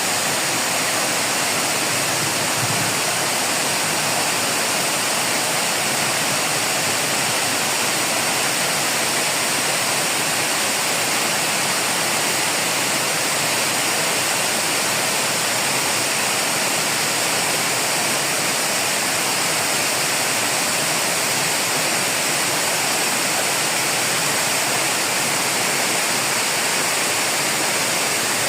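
Sudagala Falls waterfall: a steady, unbroken rush of falling water with a bright, hissy edge.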